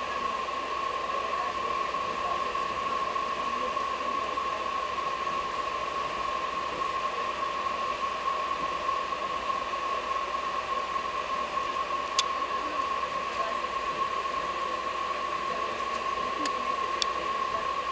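Steady running noise of a moving passenger train, with a constant high tone running through it and a few sharp clicks about twelve seconds and sixteen to seventeen seconds in.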